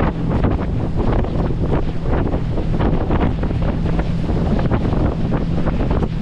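Wind buffeting the microphone on a fast-moving banana boat, with water rushing and splashing.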